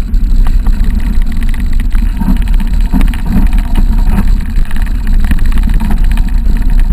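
Loud wind rumble on the microphone of a moving mountain bike, with scattered clicks and rattles.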